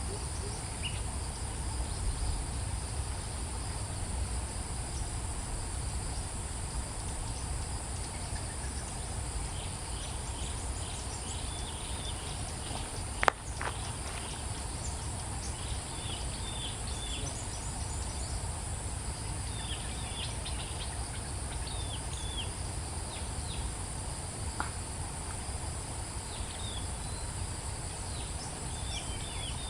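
Steady high-pitched drone of insects such as crickets, over a low rumble. From about ten seconds in, small birds give clusters of short, high chirps. There is one sharp click about thirteen seconds in.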